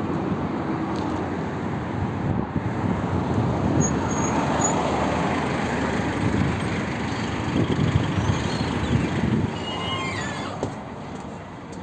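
Luidor 2250DS minibus under way, its engine and road noise running steadily. The noise grows louder about four seconds in and eases off near the end.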